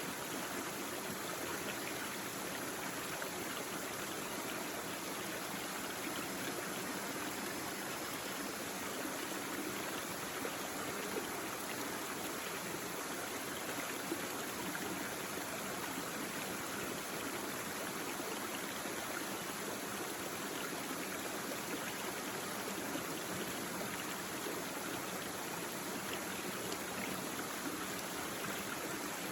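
Small brook babbling steadily over stones, an even rushing and trickling of water.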